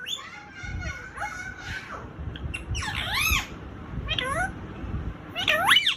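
Pet parrot mimicking a cat, giving a series of meow-like calls that rise and fall in pitch, several in quick succession and then three separate drawn-out meows.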